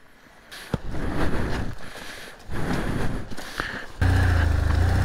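Motorcycle engine running at low revs, rising and falling unevenly during slow manoeuvring. About four seconds in, a louder, steady engine idle sets in suddenly.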